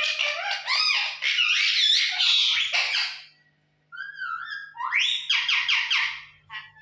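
Pet parrot chattering and whistling in quick rising-and-falling calls. It falls silent briefly about halfway, then gives a run of harsher repeated calls.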